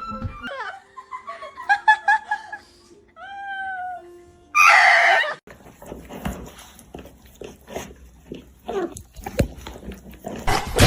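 A pet animal's cries: a few short wavering pitched calls, then a loud harsh burst about four and a half seconds in, followed by rustling and scattered knocks.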